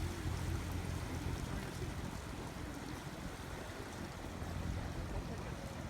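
Steady low engine hum under an even wash of noise.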